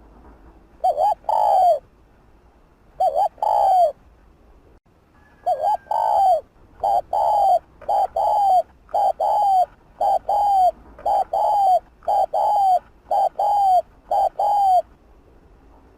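Spotted dove cooing: three spaced coo phrases, then from about six seconds in a quick run of about a dozen coos, one every ¾ second or so, stopping shortly before the end.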